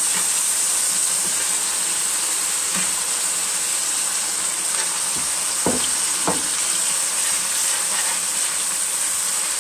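Ground beef and freshly added diced tomatoes sizzling in an electric skillet: a steady frying hiss, with two short knocks of a utensil a little past halfway.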